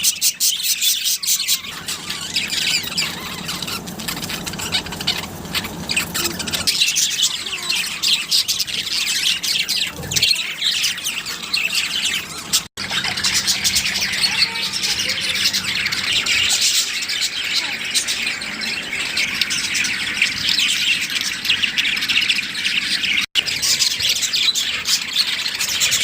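A group of budgerigars chattering continuously, a dense mix of warbling chirps and squawks, with two brief dropouts where the recording is cut.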